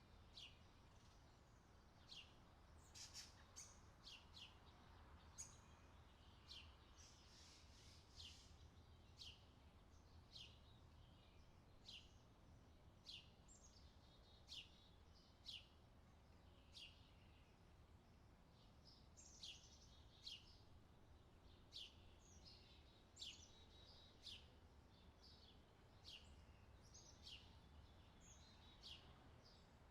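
Birds chirping faintly: short, falling chirps repeated about once a second, over a low steady hum.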